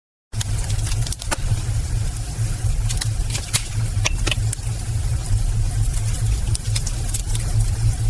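Steady low mechanical rumble, engine-like, with a few faint clicks over it. It starts abruptly after a short silence.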